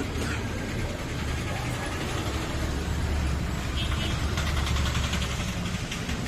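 A motor vehicle's engine running, with a steady low rumble and a faint rattle partway through.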